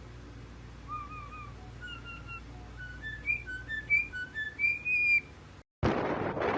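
Pet bird whistling a tune in clear, pure notes, starting with a few short repeated notes and climbing in steps to a long held high note. Near the end it cuts off, and loud wind noise on the microphone takes over.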